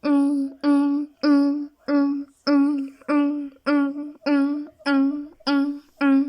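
Railway level-crossing warning bell ringing, one steady ding about every 0.6 s, the same pitch each time.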